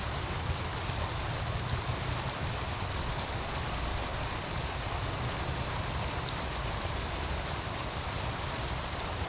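Wood fire crackling, with scattered sharp pops, over the steady rush of a meltwater stream and a low rumble underneath.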